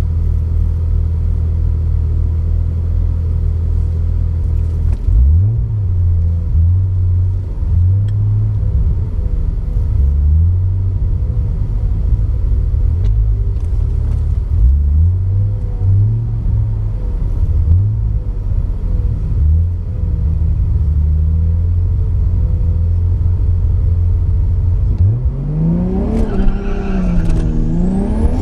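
Car engine idling with a low, steady drone and short throttle blips, then accelerating hard near the end, rising in pitch with a brief drop at a gear change before climbing again.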